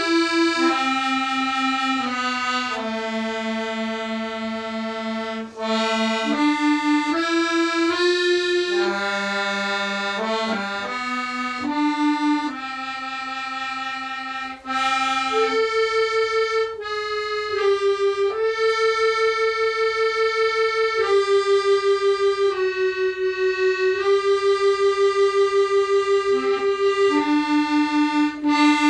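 Slow instrumental melody of long held notes from a single sustained-tone instrument; in the second half the notes waver with an even, fast tremolo.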